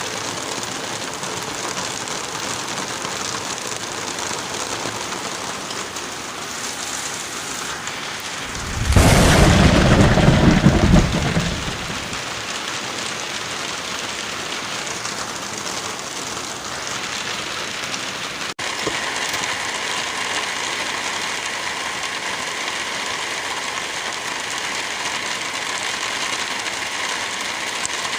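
Steady heavy rain with one loud, deep rumble of thunder about a third of the way in that lasts around three seconds. The rain cuts out for an instant about two-thirds of the way through, then resumes slightly louder.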